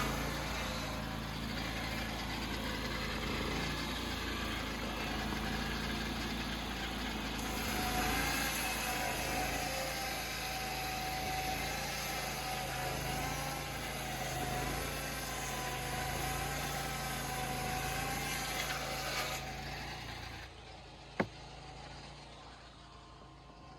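An engine running steadily, its pitch wavering slightly, then stopping about twenty seconds in. A single sharp click follows shortly after.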